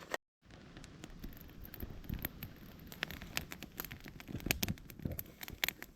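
Wood campfire burning in a Picogrill fire stand, crackling with scattered sharp pops and snaps.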